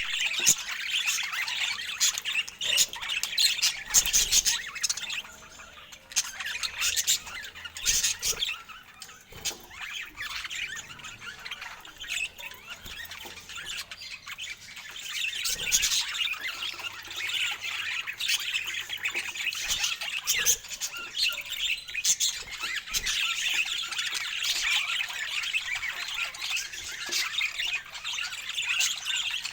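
Budgerigars chattering and warbling, a busy run of chirps and short sharp squawks, dipping briefly about five seconds in.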